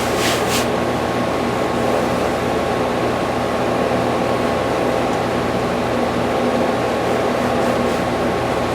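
Steady mechanical hum of a running fan or air-handling unit, unchanging in level, with a short scratchy rustle about half a second in.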